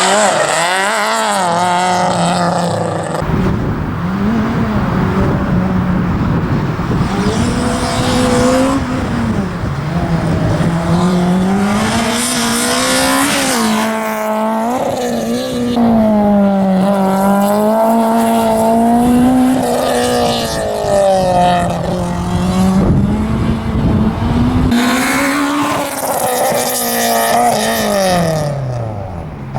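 Citroën AX GTI's 1.4-litre four-cylinder engine revving hard, its pitch rising and falling again and again as the car accelerates and lifts through a slalom course. There are several bursts of tyre squeal, and the revs drop sharply near the end.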